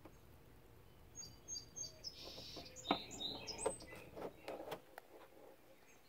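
Small birds chirping: a quick run of three high notes, then buzzier calls and short downward chirps. Several sharp taps or knocks cut across them, the loudest about three seconds in.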